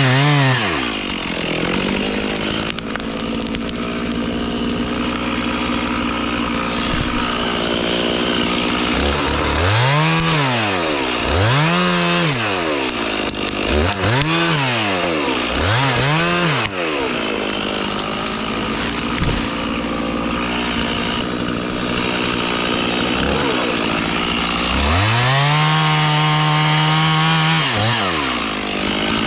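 An engine revving up and dropping back four times in quick succession, about every two seconds, with steadier running between and a longer high-revving stretch near the end.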